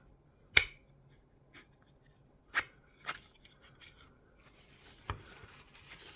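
Small parts of a 3D-printed tool-changer dock being handled and fitted together: four sharp clicks, the first the loudest, with light rubbing and scraping between them.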